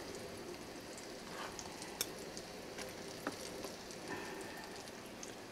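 Faint, steady sizzle of egg-and-flour-coated cardoon strips frying in oil, with a couple of light clicks of a fork against a plate.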